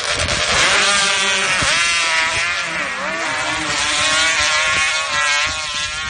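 Sand drag racing motorcycles running at full throttle down the strip, the engine pitch climbing, dipping about halfway through and climbing again.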